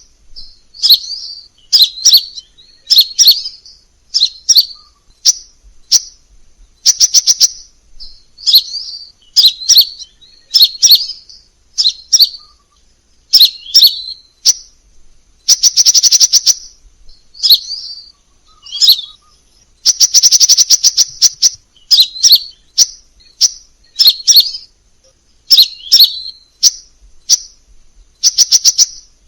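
Crimson sunbird singing: short, high chirping phrases repeated about once a second, broken by a couple of longer, very rapid trills.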